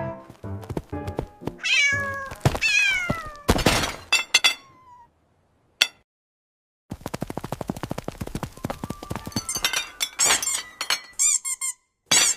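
Cartoon cat-and-mouse sound effects: cat meows falling in pitch, a sharp hit, a brief silence broken by one click, then a long run of rapid ticking with high squeaks.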